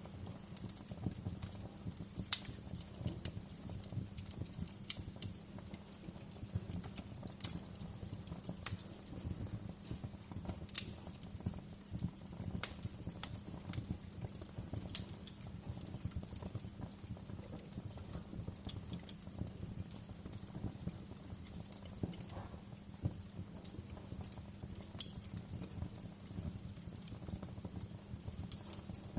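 Wood fire burning in a fireplace: a steady low rumble of flames with irregular sharp crackles and pops, the loudest pop about two seconds in.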